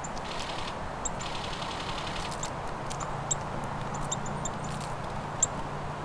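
Small forest birds calling: many short, high-pitched notes scattered throughout, with a quick rapid series of notes in the first two seconds, over a soft forest hush.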